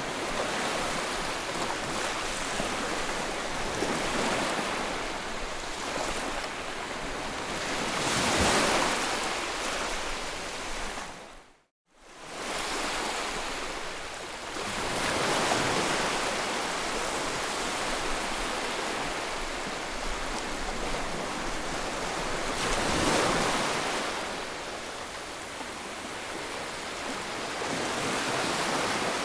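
Ocean surf washing in: a steady rush of waves that swells and ebbs, with two louder breaking waves, about eight and twenty-three seconds in. Near the middle the sound cuts out to silence for about half a second, then fades back in.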